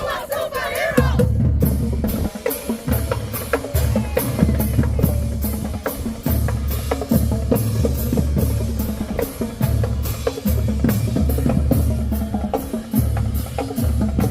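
High school marching band percussion section (bass drums, snares and cymbals) playing a steady dance beat with heavy bass, about three sharp hits a second. Voices chant briefly in the first second.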